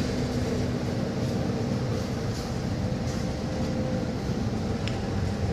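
Inside a city bus: the steady low rumble of the bus running, with a faint steady whine that stops about four seconds in.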